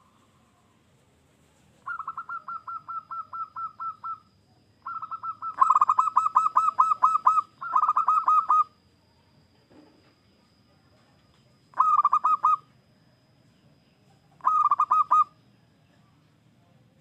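Zebra dove (perkutut) singing in bouts of rapid, evenly repeated cooing notes, four bouts in all, the longest and loudest in the middle.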